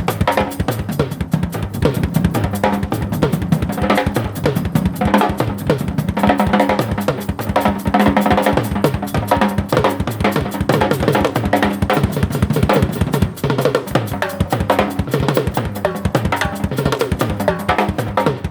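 Live instrumental jam: a drum kit plays a fast, busy beat on bass drum and snare, with an amplified instrument playing bending notes over it.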